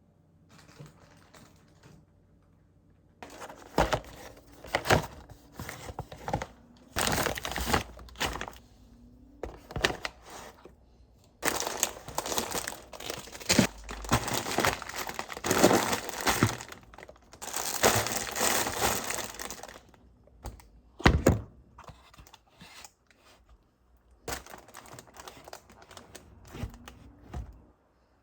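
Irregular crinkling, rustling and clattering handling noises, in bursts separated by pauses, with a few sharp clicks and a louder knock about three quarters of the way through.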